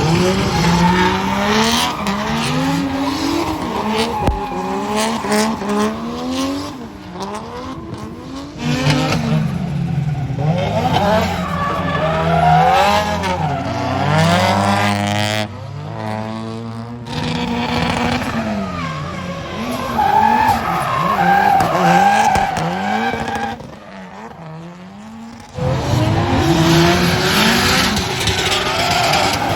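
Drift cars sliding, their engines revving hard and rising and falling in pitch as the throttle is worked, over tyre squeal and skidding. The sound drops away briefly twice, once about halfway through and once near the end, then comes back.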